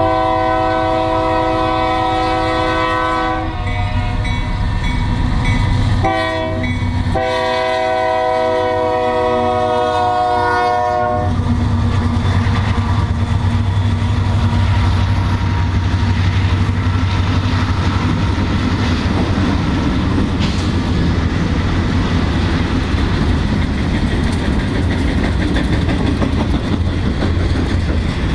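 A Union Pacific diesel freight train's air horn sounds a chord in several blasts: long ones with a short one between, the last ending about eleven seconds in. Then the locomotives and freight cars roll past the crossing with a steady low rumble and rail noise.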